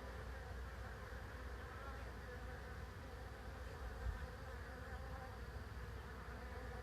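Honeybee swarm buzzing steadily, the dense hum of many bees together, with a low rumble underneath and a brief soft thump about four seconds in.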